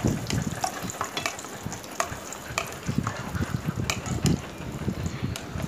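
Cashews and raisins sizzling in hot ghee in a nonstick kadai while a spatula stirs them, with occasional light clicks. The raisins have just gone in with the cashews, which are already fried.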